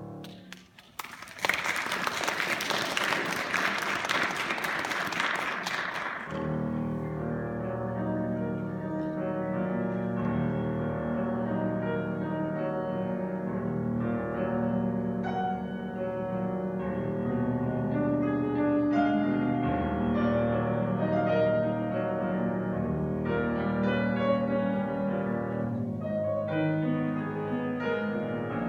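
A piano's last notes die away, and the audience applauds for about five seconds. Then solo piano music begins, a classical piece played in concert, full chords in the low and middle register.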